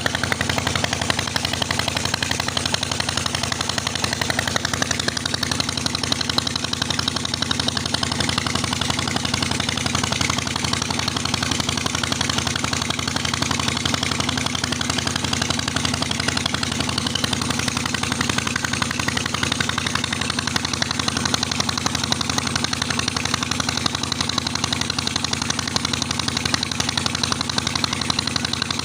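Old diesel tubewell engine (a 25-year-old Petter) running steadily and evenly.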